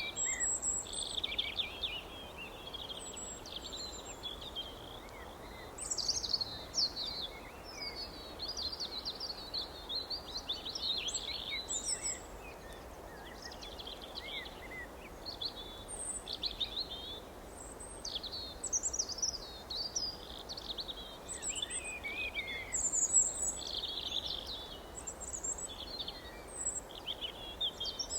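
Several songbirds chirping and trilling at once in a dawn-chorus-like mix, with many short overlapping high calls throughout, over a faint steady background hiss.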